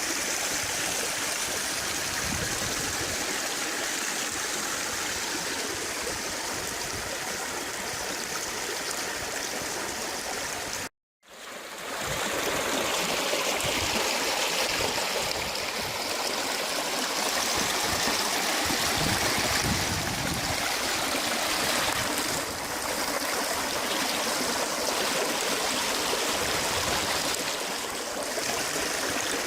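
Rushing water of a wadi swollen by heavy rain: a steady, even rush. It cuts out briefly about eleven seconds in, then resumes.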